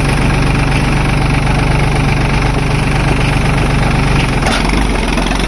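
Heavy diesel engine running steadily; about four seconds in its note drops as the revs fall, leaving a lower rumble.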